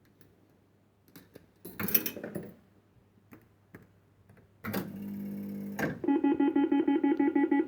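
Clicks and a clatter from a 1970s penny-play fruit machine, then a short stepped electronic tone sequence from its sounder, followed by a loud electronic chord pulsing rapidly, about six times a second, for a win.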